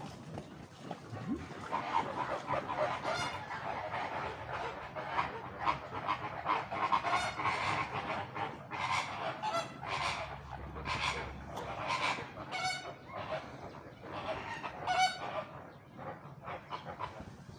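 A flock of flamingos honking, many goose-like calls overlapping. The calls grow thick about two seconds in, some with a fast rattling pulse, and thin out near the end.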